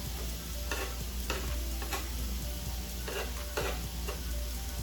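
Food sizzling on a hot griddle, with a spatula scraping and knocking across the cooking surface about six times as the food is stirred and moved around.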